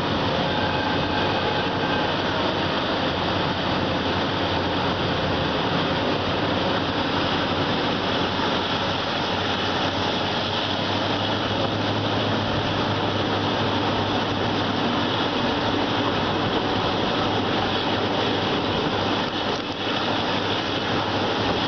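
Passenger train running at speed, heard from an open carriage window: a steady, loud din of wheels on the rails and rushing air, with a brief dip near the end.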